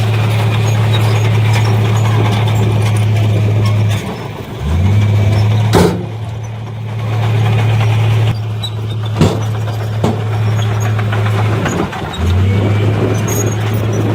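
Heavy diesel construction machine engine running with a steady low drone. It drops away about four seconds in and picks up again with a rise in pitch. It dips once more near the end, with two sharp knocks in between.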